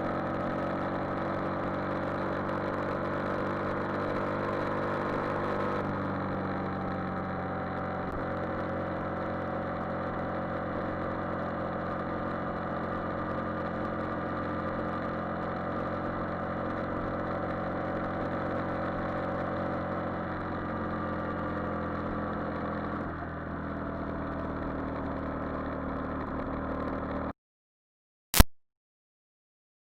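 Yamaha Virago XV400's air-cooled V-twin engine running steadily under way, its pitch shifting only slightly. Near the end the recorded sound cuts out abruptly to dead silence, with one sharp click a second later: a recording dropout.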